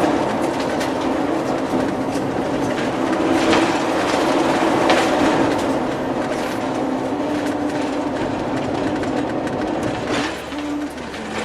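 Road noise heard from inside a moving vehicle: a steady rumble of tyres and engine with a low hum and a few sharp knocks, dipping slightly near the end.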